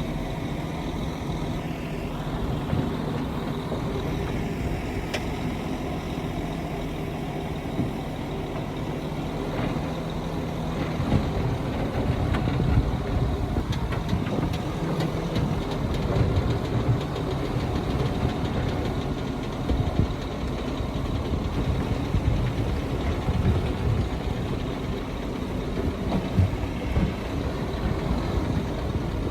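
Heavy diesel engines of earthmoving machinery running steadily at first, then louder and rougher from about eleven seconds in, with irregular low rumbles as the machines work.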